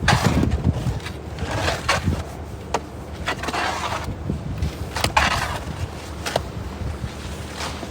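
Snow shovel scraping and scooping packed snow, several rough strokes a second or two apart, with a few sharp knocks between them.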